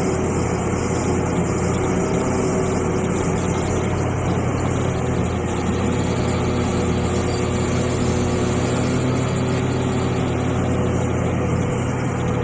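Diesel engine of a Hitachi EX450 hydraulic excavator running steadily at constant speed.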